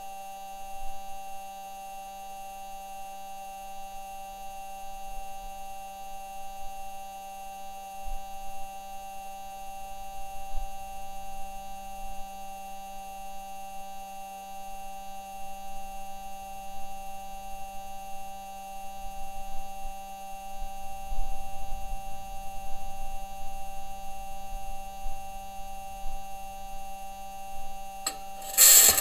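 Unprocessed sound of the Perseverance Mars rover driving: a steady set of constant humming tones over a low, uneven rumble of the wheels and suspension on the ground, the rumble growing stronger in the last third. Near the end a loud, high-pitched scraping noise starts.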